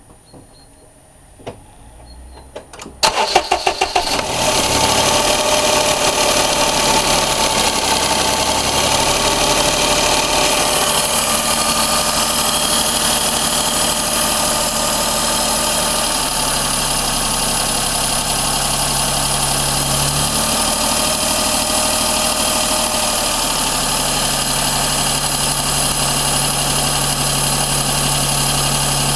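Daihatsu Cuore L7's 1.0-litre three-cylinder EJ-DE engine being started: a few faint clicks, then the starter cranks briefly about three seconds in and the engine catches. It settles into a steady idle, with its low engine tone shifting in pitch a few times.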